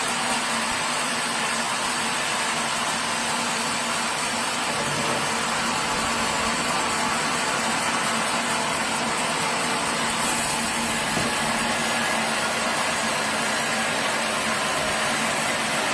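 Sawmill machinery running steadily: a constant mechanical noise with a faint hum, no change in load.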